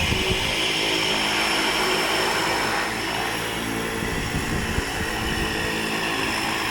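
Cessna Caravan floatplane's turboprop engine running at taxi power, a steady high turbine whine over propeller noise, with gusty wind buffeting the microphone.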